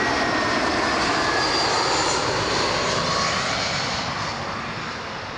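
Airbus A320 jetliner passing by, its jet engines making a loud, steady rush of noise with faint whining tones that slide down in pitch as it goes past, fading over the last second or so.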